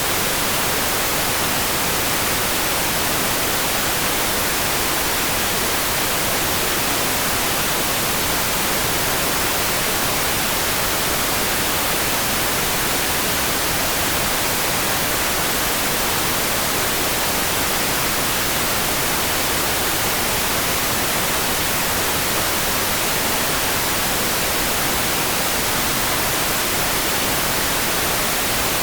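Steady rain ambience: an even, unbroken hiss weighted toward the high end, with no single drops, drips or thunder standing out.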